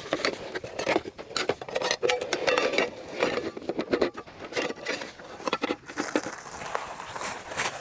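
Close, irregular scraping, tapping and rustling, with many sharp clicks scattered throughout, like things being handled or rummaged through.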